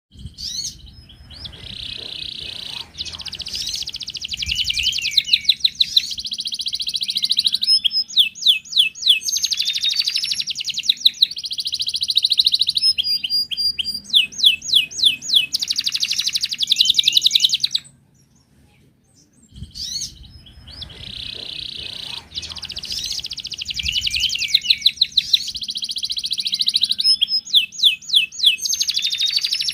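Wild canary singing a long, fast song of trills and rolls. The song breaks off for about a second and a half just past the middle, then starts again.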